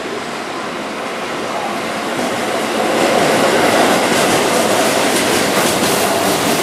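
Keihan 9000 series electric train running past close by, its wheels clicking over the rail joints. The running noise swells about three seconds in as the cars draw level.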